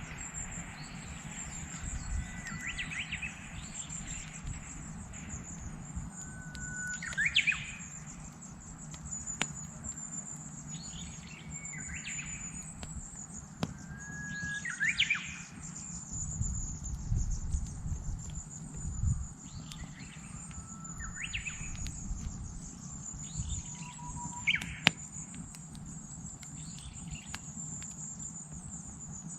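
Japanese bush warbler (uguisu) singing its hoo-hokekyo song about every four seconds, each phrase a held whistle ending in a quick rising flourish, over a campfire crackling with a few sharp pops and a steady high buzz.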